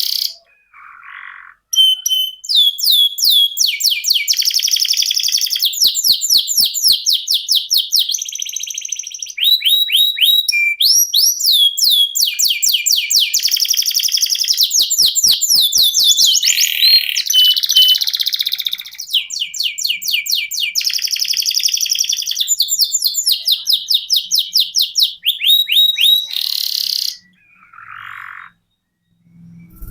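Domestic canary singing a long rolling song of rapid trills, each a run of quick falling notes repeated many times a second and changing from phrase to phrase. There are brief pauses about a second in and near the end.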